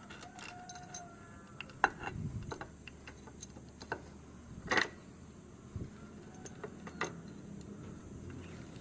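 Scattered metallic clicks and clinks of tools and small engine parts being handled, with a brief ringing clink near the start and the loudest clicks about two and five seconds in.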